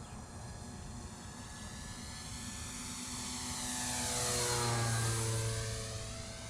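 Electric RC Cessna 182's motor and propeller whine as the model flies past, growing louder to a peak a little after the middle and then dropping in pitch as it passes and moves away. The motor runs on a newly replaced ESC, which restored its power.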